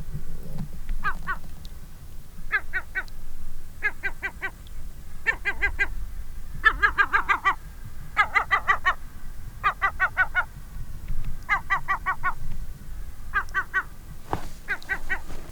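A gull calling in short bouts of rapid, harsh repeated notes, about ten bouts over the stretch, loudest in the middle. It is very mad: alarm calling at people in a boat close to its rock.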